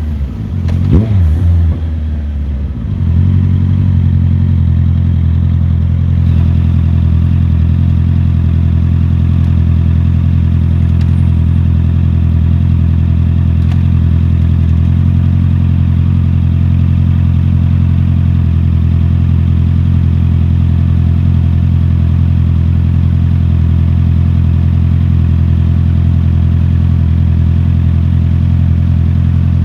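Motorcycle engine running. Its pitch swings down and back up in the first few seconds, then it runs at a steady, unchanging speed.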